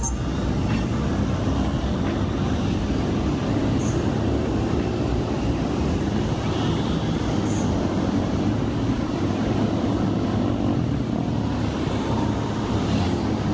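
Steady vehicle and road noise, heard from a bike riding through busy city traffic.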